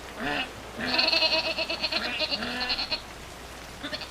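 Livestock bleating: a short call, then a longer quavering call with a fast flutter, and a faint call near the end.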